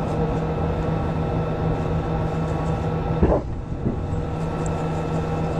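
Steady hiss and hum of an open radio or communications channel with no one talking, carrying constant tones. About three seconds in there is a brief dropout with a short chirp.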